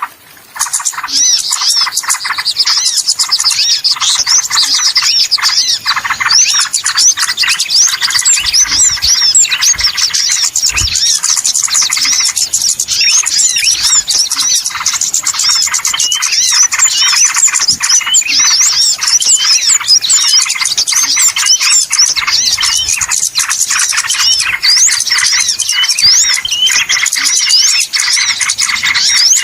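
Dense, noisy chorus of many small birds chirping and twittering at once, with quick high rising and falling notes. It is a lure recording (pikat) of small-bird calls, used to draw small birds in.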